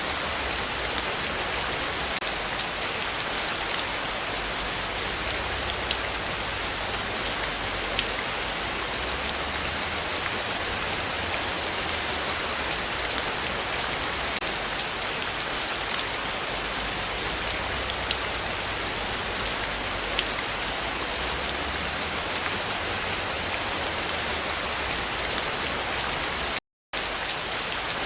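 Heavy rain falling steadily in a dense, even hiss, with many individual drops pattering on surfaces. The sound cuts out completely for a split second near the end.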